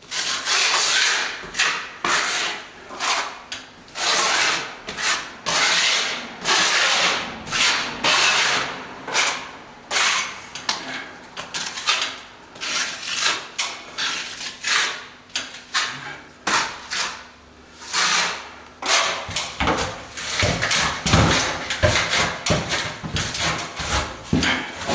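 Hand tool scraping on a plastered wall in quick repeated strokes, about one to two a second, with a few heavier knocks near the end.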